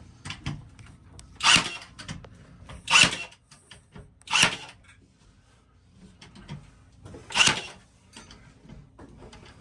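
Brad nailer firing four times, tacking brad nails through a plywood wall panel: sharp single shots about a second and a half apart, with a longer gap before the last, and faint clicks of handling between them.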